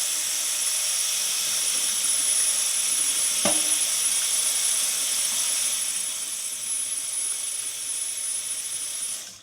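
Tap water running steadily over a steel horseshoe to rinse it, with one light knock about three and a half seconds in. The water shuts off suddenly near the end.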